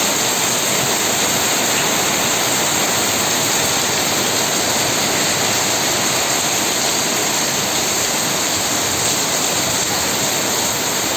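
Heavy rain pouring down in a steady, even rush, with no let-up.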